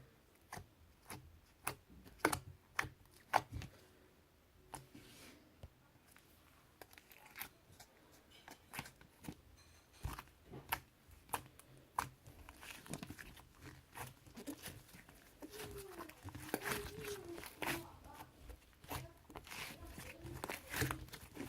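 Slime being squished and stretched by hand, giving a string of sharp pops and clicks that turn into denser crackling in the second half.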